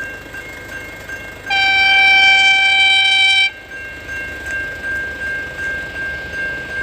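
Train horn sounding one long, steady single note for about two seconds, starting about a second and a half in. Under it a steady high ringing tone pulses faintly throughout.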